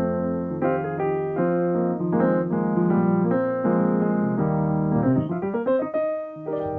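Solo piano playing a series of struck chords, with a quick rising run about five seconds in that lands on a held chord near the end.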